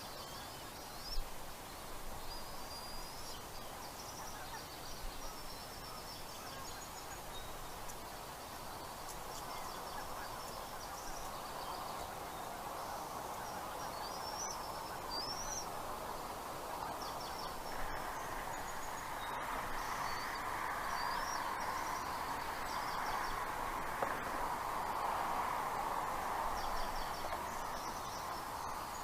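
Outdoor ambience: a steady rushing noise that grows louder about two thirds of the way in, with scattered high-pitched bird chirps and short rising notes throughout.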